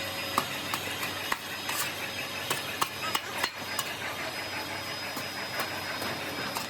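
Metalworking workshop noise: a steady hiss with irregular sharp metal clinks and knocks, several a second.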